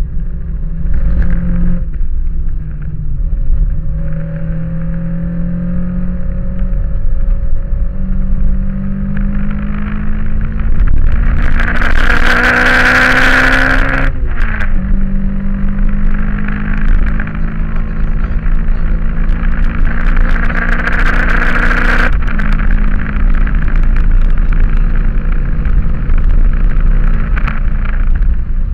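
Toyota Corolla AE86's 4A-GE 20-valve inline-four, heard from inside the cabin as the car accelerates on track. The engine note climbs steadily, drops sharply at an upshift about halfway through, climbs again, and drops at a second upshift about three-quarters of the way through.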